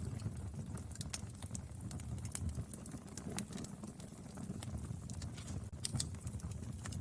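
Firewood burning, with irregular sharp crackles and pops over a low steady rumble of the flames.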